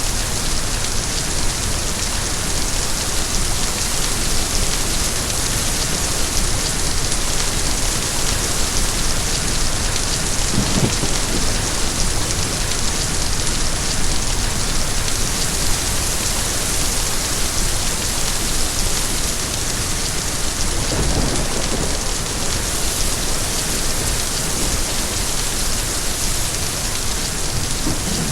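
Steady, heavy rain falling as a dense, even hiss of drops.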